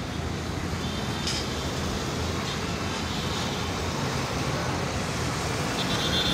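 Diesel locomotive hauling a passenger train slowly round a curve: a steady low engine rumble mixed with the rolling of the coaches.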